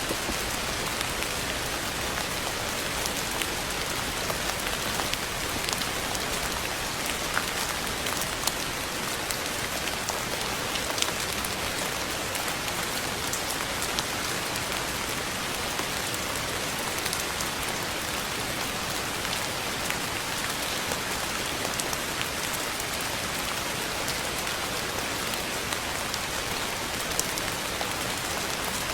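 Steady rain falling, a continuous even hiss with scattered drop clicks.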